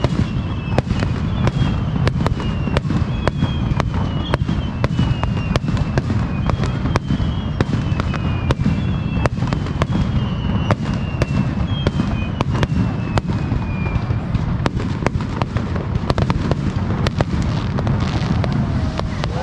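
Aerial fireworks display: a rapid, continuous series of sharp bangs and crackles over a steady low rumble, with short falling whistles repeating through the first two-thirds.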